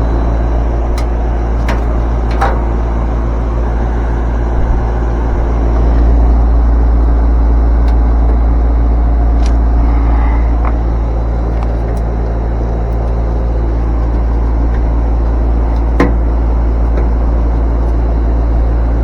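Steady low mechanical hum with several steady tones in it, broken by a few light clicks.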